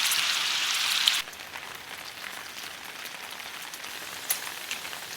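Rain hissing steadily, much louder for about the first second and then dropping abruptly to a fainter patter with scattered drips.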